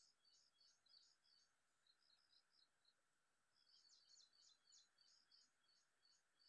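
Near silence with faint birdsong: rapid series of short high chirps, pausing for about two seconds midway, over a faint steady hum of outdoor ambience.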